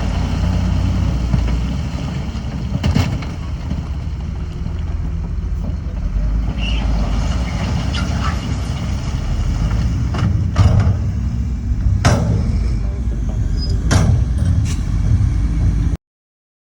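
Heavy diesel earthmoving machinery running with a steady low rumble, broken by several sharp metallic knocks. It cuts off suddenly near the end.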